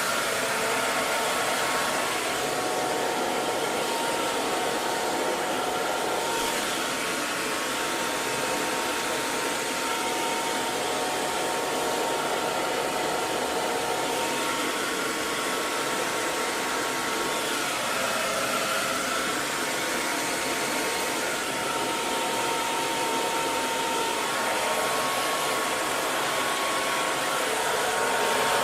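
Hair dryer running steadily: an even rushing hiss of fan and airflow, with a faint motor whine in it.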